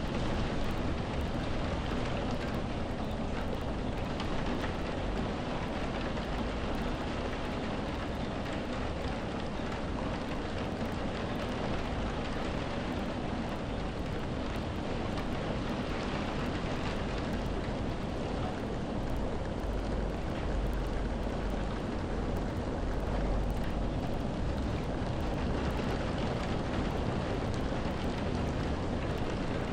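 Steady rain falling, an even wash of patter with a constant low rumble underneath.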